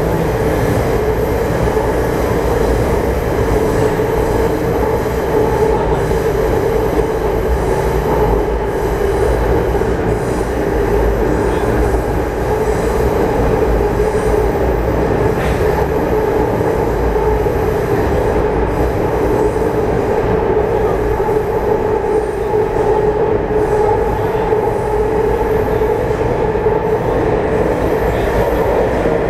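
Taipei Metro C301 train with retrofitted propulsion running at speed through the tunnel: a steady, unbroken rumble of wheels and running gear with a constant hum.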